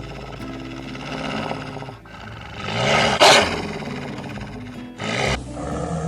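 An animal roaring once over background music, loudest about three seconds in.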